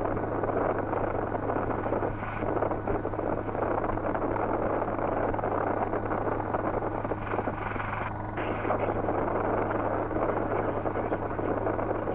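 Schweizer 300C helicopter in flight: its four-cylinder piston engine and rotors make a steady drone with a constant low hum underneath. This is the aircraft's normal running noise.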